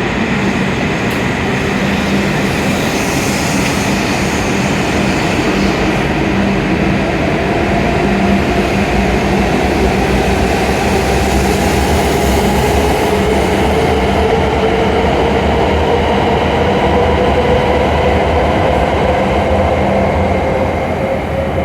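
E7-series Shinkansen train pulling out of the platform, its motor whine slowly rising in pitch as it gathers speed over steady running noise. The sound eases off a little near the end.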